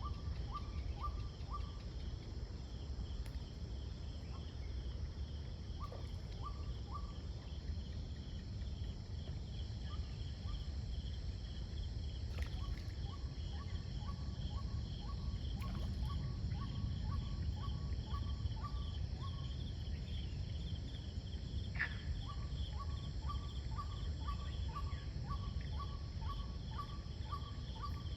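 Evening insect chorus of crickets, a steady rapid pulsing trill, over a continuous low rumble. Several times an animal calls in runs of short, evenly spaced notes, about four or five a second, with one brief rising call a little past the middle.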